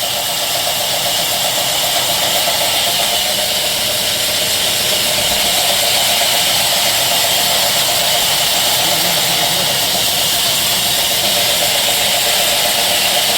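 A small motor running steadily with a loud hiss, its level unchanging.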